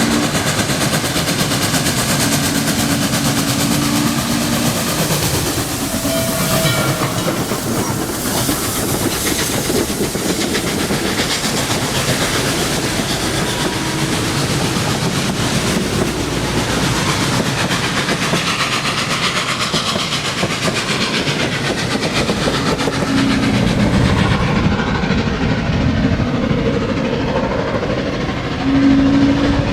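Steam locomotive working at speed: rapid exhaust beats and rail clatter run all through. Short steady whistle notes sound at the start, a few seconds in, and near the end.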